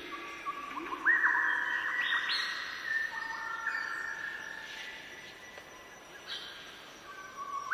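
Birds singing: a run of clear, whistled notes, loudest about a second in, with a low rising call repeating a few times at the start.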